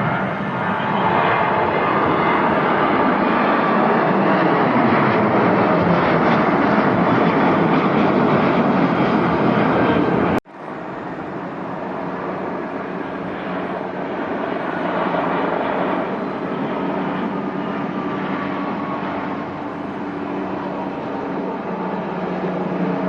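Jet airliner engines, loud and steady for about ten seconds with a slowly shifting pitch, then a sudden cut to a quieter, steadier engine noise.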